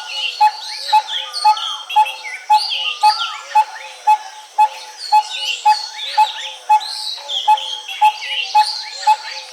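A mixed bird chorus in dry forest: one bird repeats a single short, low note evenly about twice a second, while other birds chirp and whistle higher, in rising and falling glides.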